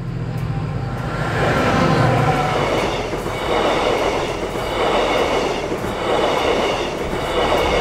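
TransPennine Express Class 68-hauled passenger train passing at close range over a level crossing. A low engine hum comes first, then the coaches' wheels rumble past in swells about every second and a half, with a high ringing squeal from the wheels on the rails.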